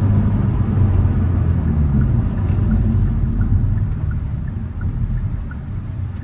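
Hyundai Elantra N's turbocharged four-cylinder engine running steadily on the road, heard from inside the cabin with wind noise from the open sunroof. The sound eases slightly about two-thirds of the way through.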